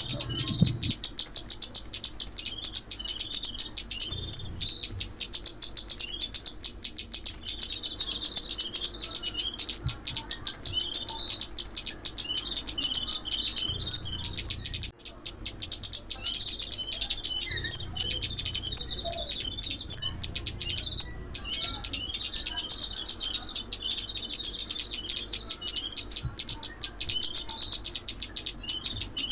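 Rapid, high-pitched chirping and twittering of a small songbird, played as a lure call for bird trapping. The song runs in dense phrases with short breaks.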